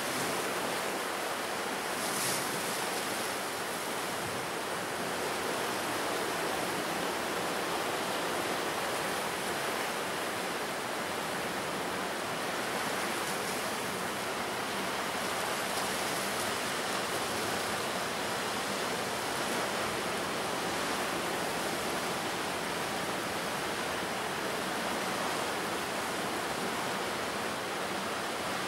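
Ocean surf on the shore: a steady rushing wash of waves with no separate crashes standing out.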